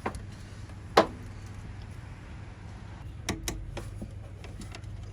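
A few sharp knocks and clicks of parts and tools being handled while the battery tray is taken out of a car's engine bay, the loudest about a second in and a quick pair a little after three seconds, over a steady low hum.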